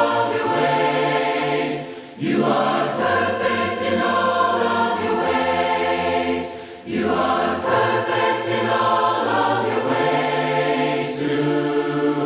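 A choir singing a hymn a cappella in long held phrases, with short breaks between phrases about two seconds in and again near seven seconds.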